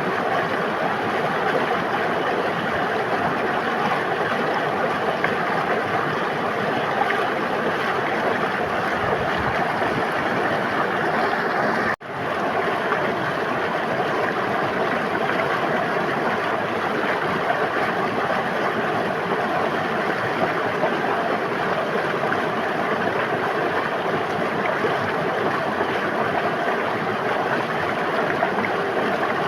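A river flowing steadily, an even rush of moving water, with a brief drop-out about twelve seconds in where the sound cuts off for a split second and resumes.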